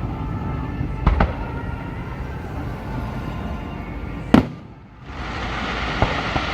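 Fireworks display: shells bursting with sharp bangs, one about a second in and a louder one about four seconds in, over a continuous bed of noise from the show. The sound drops away briefly just before five seconds in, then returns.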